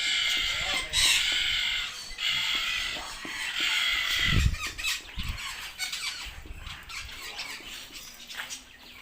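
A bird gives four loud, harsh screeching squawks in a row through the first half. These are followed by two dull thumps about four and a half and five and a half seconds in.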